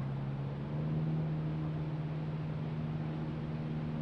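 Steady low mechanical hum with a few even pitched tones, stepping up slightly in pitch and level about a second in.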